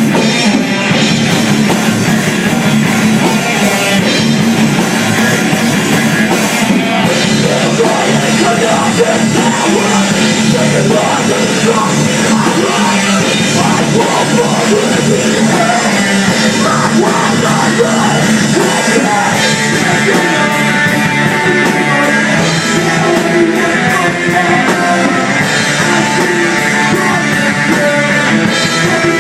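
Live rock band playing a loud, heavy song: electric guitars and drum kit going without a break.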